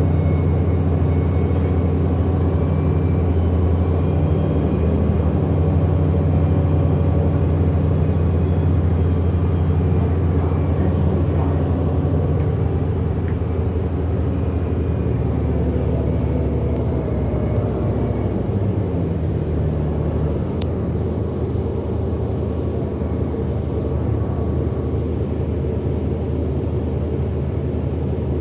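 Drive system of a 2008 Orion VII NG hybrid-electric bus running while under way, heard from inside: a steady low drone with a faint high electric whine that fades out about halfway through. A single sharp click comes about two-thirds of the way in.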